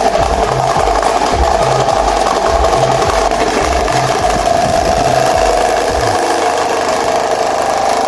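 Britânia Ventus 30 electric fan running with two broken blades, giving a loud, steady whirring. A low regular thump about twice a second stops about six seconds in.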